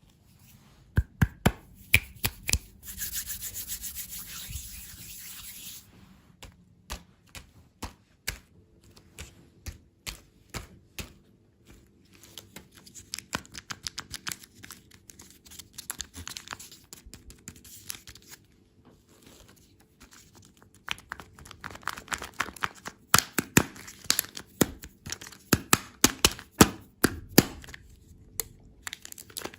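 Close-miked crunching and clicking of candy and desserts, with a rasping hiss of a few seconds near the start, then a fast, crisp crunching in the last third.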